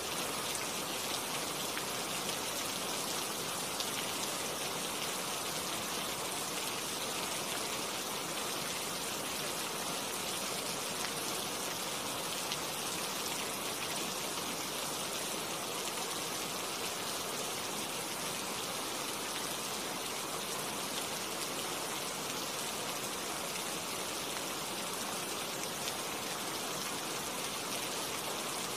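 Steady rain falling on tree foliage: an even, unbroken hiss that neither swells nor fades.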